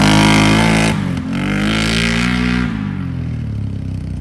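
Can-Am Renegade 850 ATV V-twin with an aftermarket Yoshimura exhaust, revved twice: the pitch climbs, drops about a second in, climbs again, then falls back to a loud idle near three seconds in.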